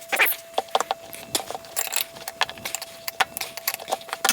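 Irregular clicks, knocks and scrapes of metal parts worked by hand: stuck brake shoes being worked loose from the front wheel hub of a 1962 KTM Ponny scooter.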